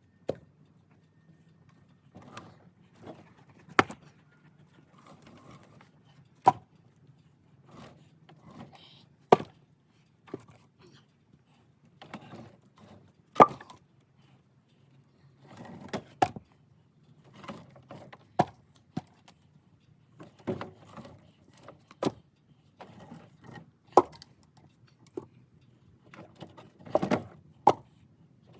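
Pieces of firewood being unloaded by hand and tossed onto a pile, each landing with a sharp wooden knock every one to three seconds. A faint low steady hum runs underneath.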